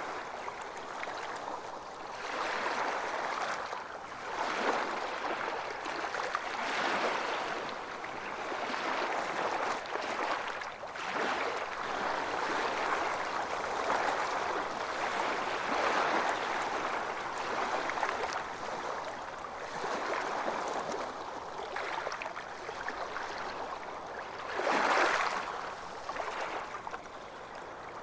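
Small waves washing onto a beach, a steady rush of surf that swells and eases every couple of seconds, with one stronger wave breaking near the end.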